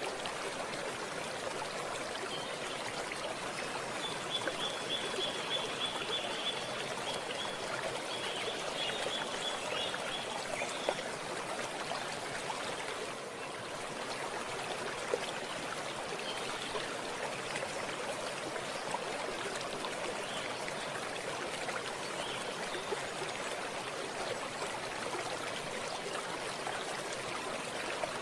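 Stream water running and trickling steadily. A faint high, rapid trill sounds over it for several seconds in the first half.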